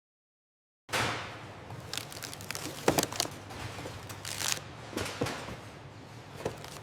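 After about a second of silence, a low steady hum with scattered knocks, clicks and rustles, like handling noise and clatter in a working warehouse.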